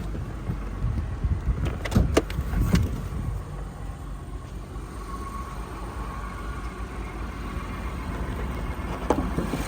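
A few sharp knocks and clicks about two seconds in, with another click near the end, from the hood of a 2021 Genesis GV80 being released and opened. Under them is the low, steady hum of the engine idling, which is very quiet.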